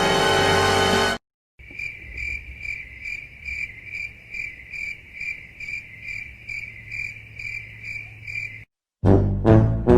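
Crickets chirping in a steady, even rhythm, about two and a half high-pitched chirps a second: the stock crickets sound effect. A music cue cuts off about a second in, and new music starts near the end.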